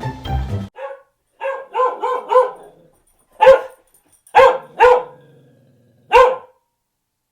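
Dog barking: some quick, lighter yaps, then single loud barks about a second apart. Background music cuts off under a second in.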